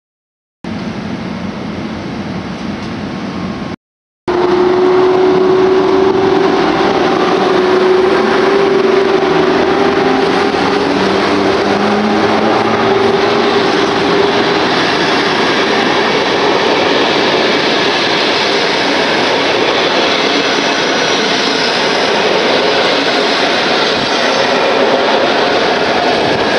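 Coaches of an electric-hauled passenger train rolling past close by as it pulls out of the station: a steady rumble and rattle of wheels on the rails. A steady hum runs through the first ten seconds of the passing and then fades. Before a brief dropout about four seconds in, a quieter steady noise of the train standing at the platform.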